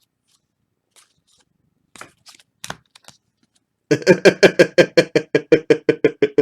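A few faint clicks and rustles of cards being handled, then, about four seconds in, a man laughing in a rapid run of short pulses, about six a second.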